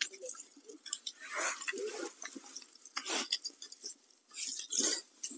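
Irregular rustling, scraping and light knocks and clicks of things being handled.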